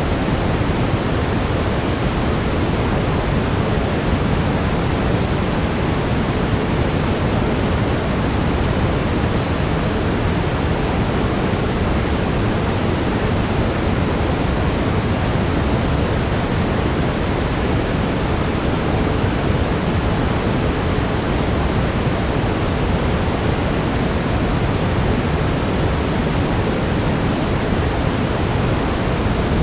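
Steady brown noise, a deep even rushing hiss that does not change, with a faint steady tone near 432 Hz beneath it.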